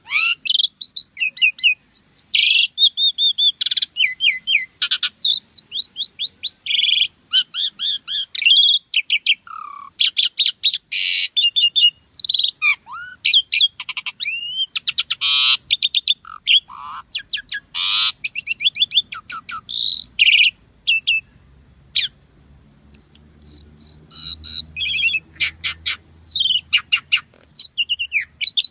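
Asian pied starling singing a fast, varied song of whistles, chirps and rasping notes, with a short pause a little past the middle. A faint low hum runs underneath in the second half.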